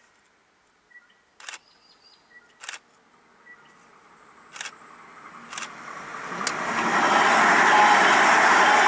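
Two-car Transwa AvonLink diesel railcar approaching and passing close by. Its engine and wheel noise build from about halfway through to a loud rush near the end. A few sharp clicks come before it arrives.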